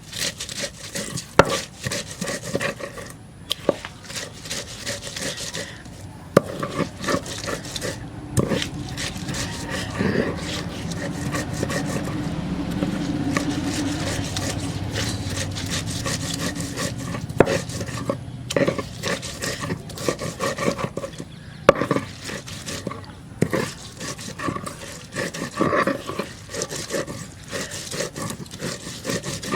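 Kitchen food preparation: repeated rubbing and scraping with frequent sharp knocks, and a steadier stretch of scraping near the middle.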